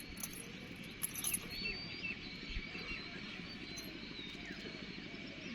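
Outdoor ambience: small birds chirping over a steady high insect drone, with a few faint clicks.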